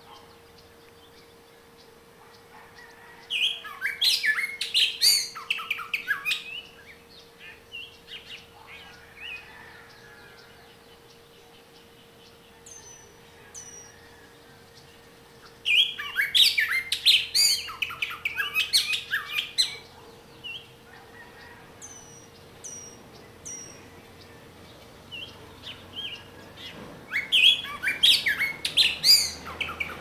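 Birdsong: three loud bouts of quick, varied chirping notes, each lasting three to four seconds and coming about every twelve seconds. A few short, high, falling calls sound between the bouts.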